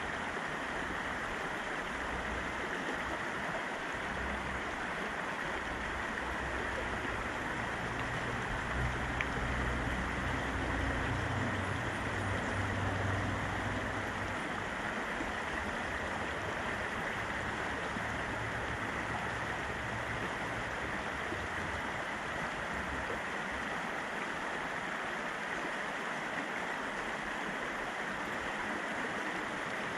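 Fast-flowing river rushing steadily, with a low rumble that swells and fades between about eight and fourteen seconds in.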